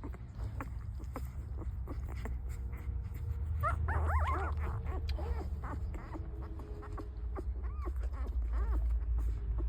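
Newborn puppies squeaking and whimpering, with a cluster of short high rising-and-falling cries about three and a half seconds in and a few more near the end, over a steady low rumble.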